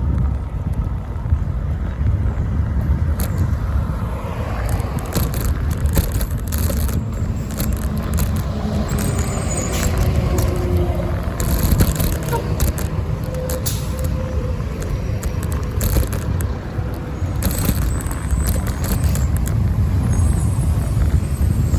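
Wind and road rumble on a bicycle-mounted phone's microphone while riding, with many short clicks and rattles, and passing street traffic.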